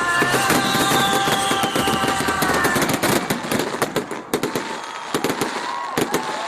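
Fireworks crackling and banging in rapid sharp cracks that come thicker in the second half, over music with long held notes that fade out about three seconds in.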